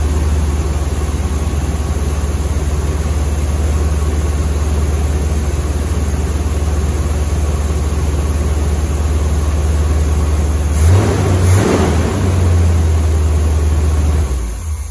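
1976 Corvette's small-block V8 idling steadily on a test run with its newly fitted radiator fan and fan clutch turning. The throttle is blipped twice about eleven seconds in, and the engine is shut off and runs down near the end.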